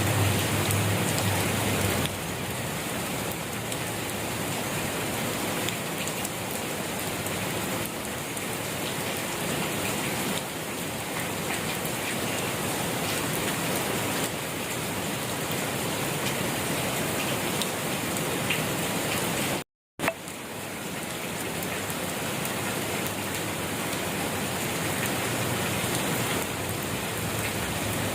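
Steady rain falling in an even hiss. It cuts out completely for a split second about two-thirds of the way through, then resumes.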